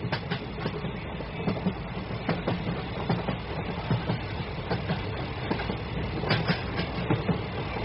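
Train running along the track, a steady rumble with irregular clicks of the wheels over rail joints, the loudest pair about six and a half seconds in.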